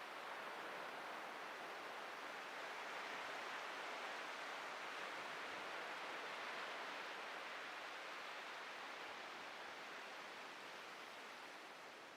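Atlantic ocean surf breaking and washing on a beach: a steady rush that swells a few seconds in and eases off near the end.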